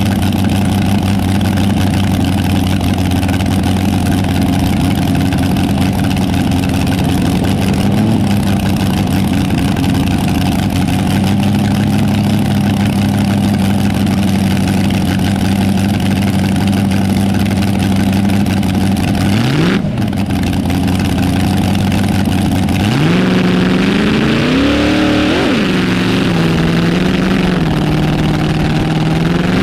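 Vehicle engine running at a steady idle, with a quick rise in revs about two-thirds of the way in; over the last several seconds the engine note climbs and wanders in pitch as it is revved or driven.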